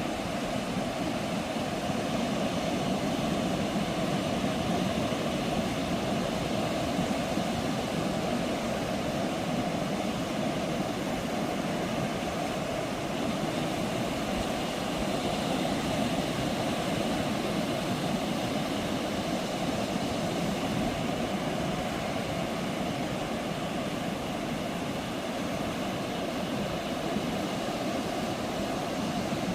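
Ocean surf breaking on a sandy beach: a steady, unbroken wash of wave noise.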